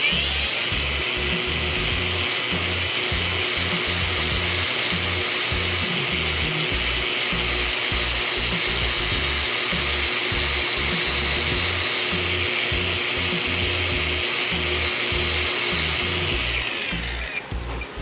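Small electric power tool running at a steady high speed with a constant whine, stopping shortly before the end, over background music with a beat.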